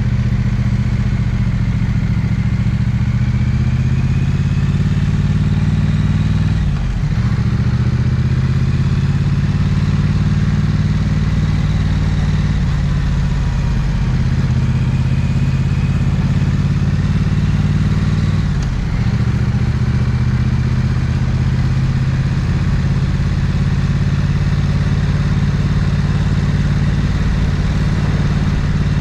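Triumph Bonneville 900cc parallel-twin motorcycle engine and exhaust running steadily under way, with two brief dips in pitch and level as gears are changed, about a quarter and two-thirds of the way in.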